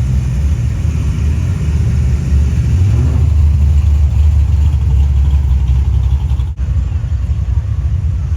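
Cars cruising past in slow traffic, their engines rumbling deeply, with one engine briefly revving up about three seconds in.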